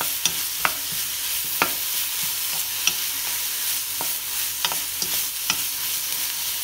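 Sliced vegetables sizzling in oil in a wok-style pan while a wooden spatula stirs and tosses them, with about eight sharp knocks of the spatula against the pan at irregular intervals.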